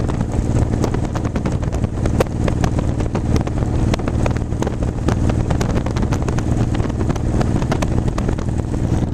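Motorcycle engine running steadily at road speed, with wind buffeting and crackling on the microphone.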